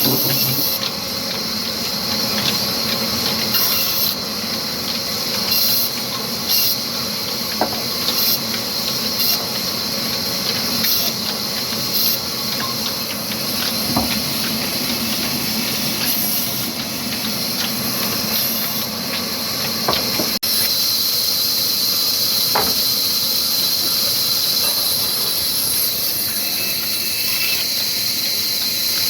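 Old 22 hp, 300 rpm black diesel engine running with a wood-cutting saw: a steady mechanical din under a strong high hiss with short squealing flares. About two-thirds of the way in the sound changes suddenly to a louder, continuous high hiss.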